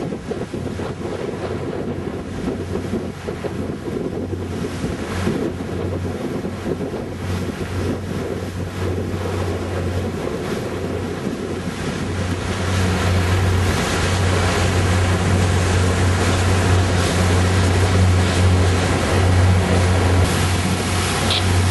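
Boat engine running steadily under way, with water rushing and wind buffeting the microphone; the engine's low hum grows louder about halfway through.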